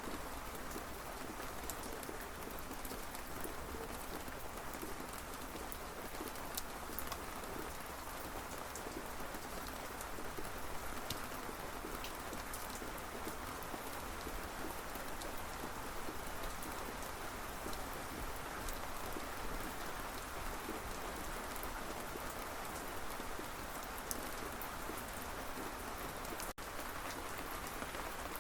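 Steady rain falling, with many individual drops pattering as small clicks. It cuts out for a split second near the end.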